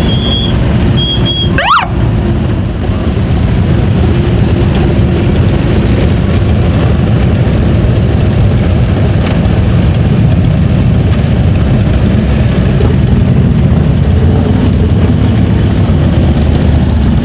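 Vehicle engines running steadily and loudly. A brief high chirp comes about two seconds in.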